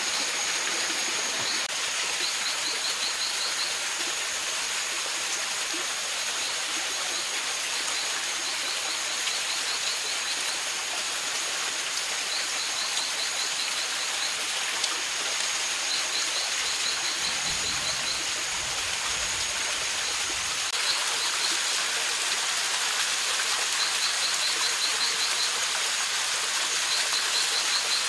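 Mountain stream running steadily, with a steady high-pitched whine over it and short bursts of rapid high chirping that come back every few seconds.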